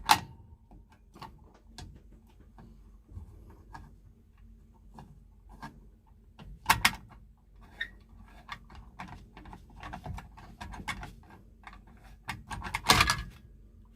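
Small hand tools and metal parts clicking and clinking as they are handled during work on a well pump's pressure switch, with a few louder metal knocks about 7 seconds in and near the end.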